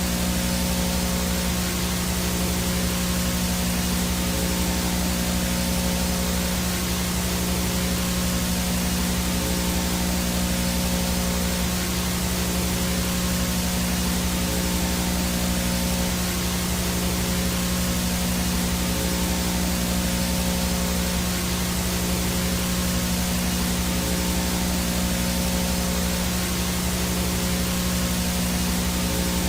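Analog VHS static: a steady hiss of white noise with a constant low buzzing hum underneath, unchanging throughout.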